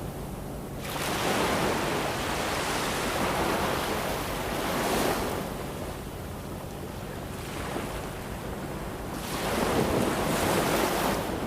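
Ocean waves breaking and washing ashore: two swells of surf, one building about a second in and a second near the end, each easing off between, over a steady low rumble of the sea.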